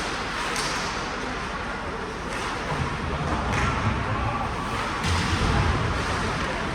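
Ice hockey game noise in a rink: a steady hubbub with a few sharp knocks, several seconds apart, typical of sticks, puck and bodies hitting the boards.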